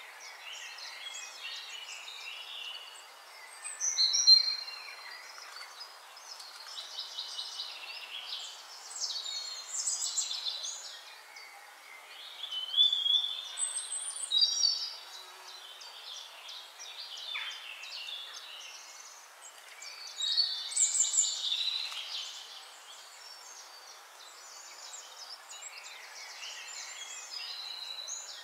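Birds chirping and singing in short, varied phrases over a steady hiss, with louder bursts of song about four seconds in and again around thirteen to fifteen and twenty-one seconds.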